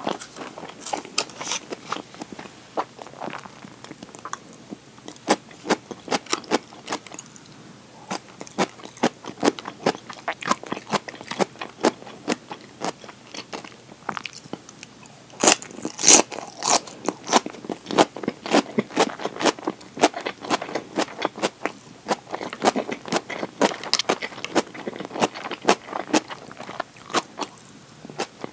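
Close-miked eating: crunching and chewing of vegetable salad, heard as rapid wet clicks and crackles throughout, with a louder burst of crunching about sixteen seconds in.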